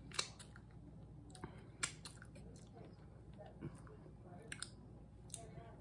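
Eating mouth sounds: chewing, with sharp wet smacks and clicks at irregular intervals, and fingers being licked.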